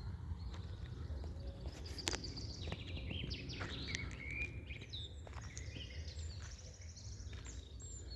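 Several songbirds singing and calling: many short chirps and trills, over a steady low rumble. A sharp click comes about two seconds in.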